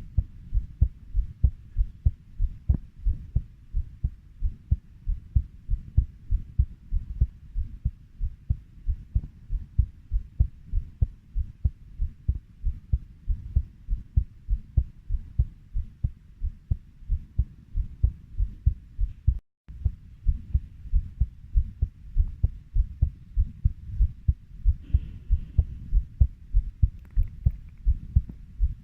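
Heartbeat at a steady 90 beats per minute: paired low lub-dub thumps, evenly spaced, with a brief cut to silence about two-thirds of the way through.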